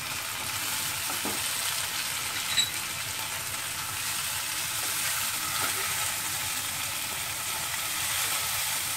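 Chopped tomato and fried onions sizzling in hot mustard oil in a non-stick pan while being stirred with a spatula, a steady frying hiss. One sharp click about two and a half seconds in.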